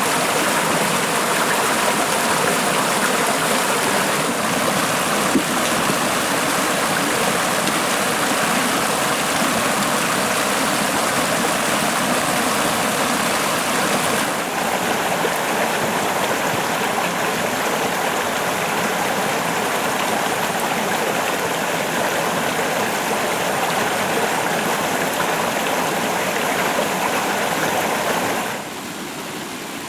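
Stream water rushing steadily, an even noise that changes slightly about halfway through and turns quieter near the end.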